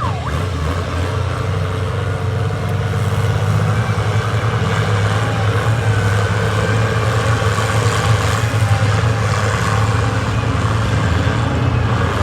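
Ford 8N tractor's four-cylinder engine running steadily under load while pulling the weight sled, growing slightly louder through the pull.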